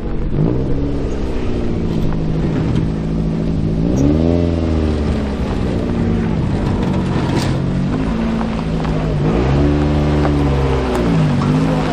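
Car engine idling steadily and revved a few times, each rev rising in pitch and falling back to idle within about a second.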